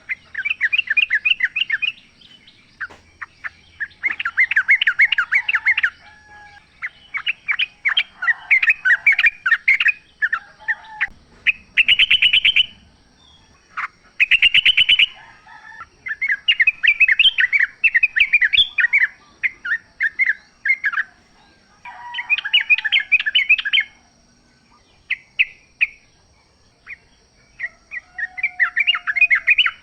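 Yellow-vented bulbul (trucukan) singing in repeated bouts of quick chattering notes, each bout a couple of seconds long with short pauses between, and two fast dense trills about halfway through.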